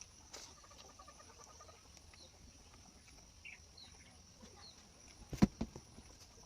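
Faint outdoor ambience: a few short bird chirps over a steady high insect drone, with one sharp knock a little past five seconds in.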